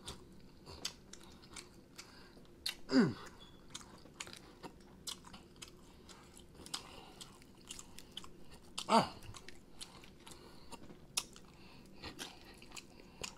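Close-up chewing and biting on sauced whole chicken wings, with wet mouth clicks and the odd crunch. Two brief louder sounds fall in pitch, about three seconds and nine seconds in.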